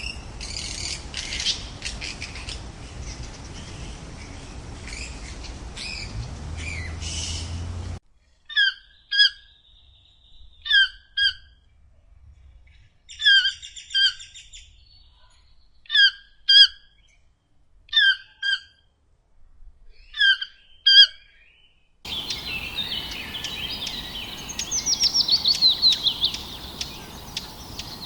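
Bird calls in three separate recordings cut together. The first has scattered calls over a hissing background. The second has pairs of short, clear call notes repeated every two to three seconds against near silence. The third has a fast trill over a hissing background.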